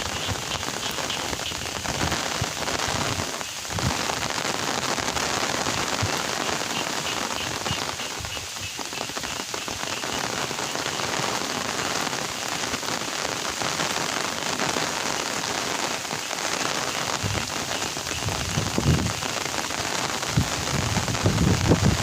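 Steady rain falling, with a few low thumps near the end.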